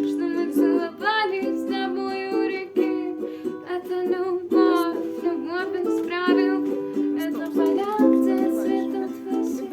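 Ukulele cover song: ukulele playing with a sung voice over it.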